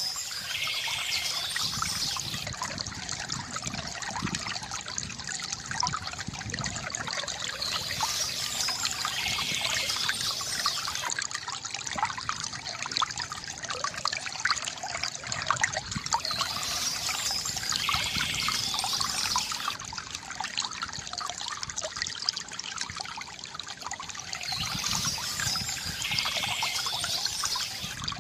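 Water from a bamboo fountain trickling and gurgling steadily into a pool, with birds chirping in short spells about every eight seconds.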